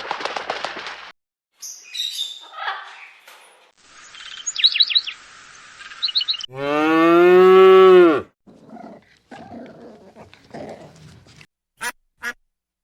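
A cow mooing once, a long pitched call of about a second and a half that drops in pitch as it ends, about halfway through. It sits among brief clips of other animal sounds, including a burst of quick high chirps shortly before it and a few faint noises and clicks afterwards.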